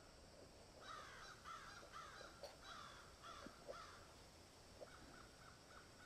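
Birds calling faintly, in an added outdoor ambience track: a run of about six calls, then a quicker series of shorter calls near the end.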